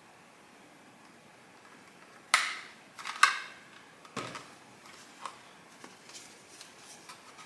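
Hard plastic parts of a robot vacuum cleaner being handled and taken off: a few sharp clicks and knocks between about two and four and a half seconds in, then lighter ticks.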